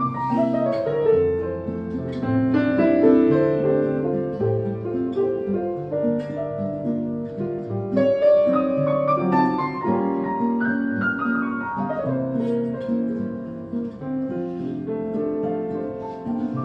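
Instrumental break of a small jazz combo: acoustic guitar accompaniment under a melody of held notes from a wind instrument.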